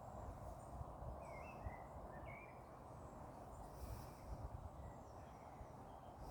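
Faint woodland ambience: a few short bird chirps between about one and two and a half seconds in, over a steady low background hum with scattered low thuds.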